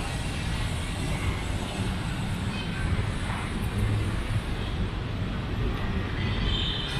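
Steady low rumble of city traffic, a constant wash of road noise.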